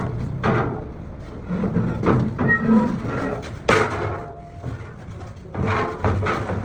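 Workshop clatter: a few sharp knocks, the loudest about four seconds in, with voices in the background.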